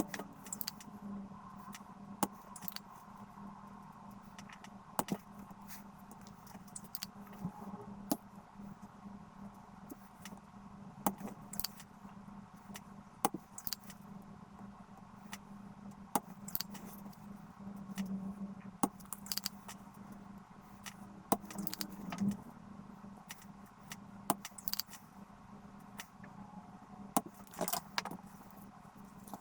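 Irregular light clicks and small metallic taps of hand tools working on a circuit board, over a steady low hum.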